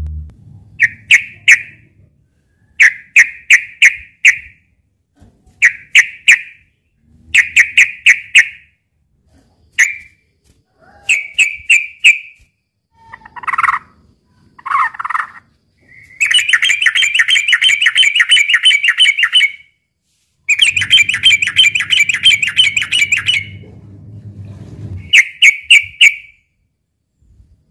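Yellow-vented bulbul (trucukan) singing its fighting song. It gives short bubbly phrases of two to five quick notes, then two long rapid chattering runs in the middle. A low hum sits under the second run.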